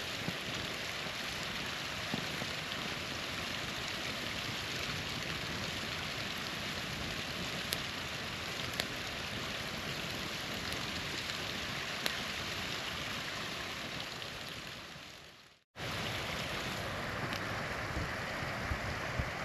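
Small waterfall rushing steadily, with a few sharp pops from a campfire crackling. About fifteen seconds in the sound fades out to silence, then cuts straight back in.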